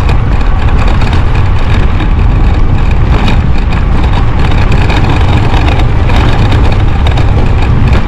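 Steady, loud wind rush on the microphone of a moving electric bike, heaviest in the low end, with road and drivetrain noise underneath.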